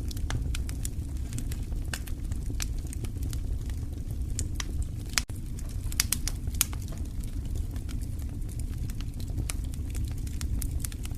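Wood fire crackling in a fireplace: frequent irregular sharp pops and snaps over a steady low rumble of burning, with a small cluster of louder pops about six seconds in.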